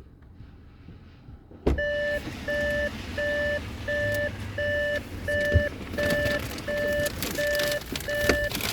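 An electronic warning beeper starts suddenly about two seconds in and repeats a steady beep a bit under two times a second, with knocks and rustling beneath it.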